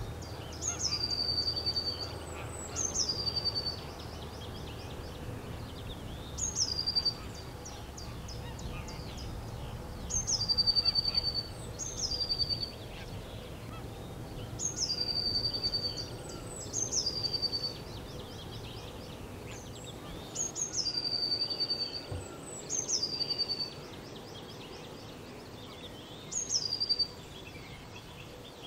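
Birds calling over and over, about every two seconds: each call is a quick run of ticks followed by a high whistle that drops and then holds a steady note for about half a second. A low rumble of background noise lies underneath and eases after about twenty seconds.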